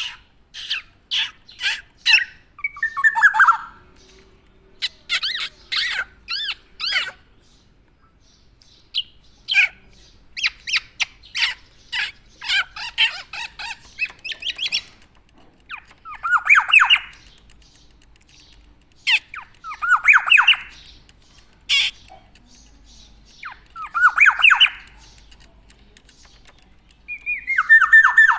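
Black-naped oriole (Javan kepodang) calling: bursts of quick, clipped notes, with a harsh, falling call about every four seconds.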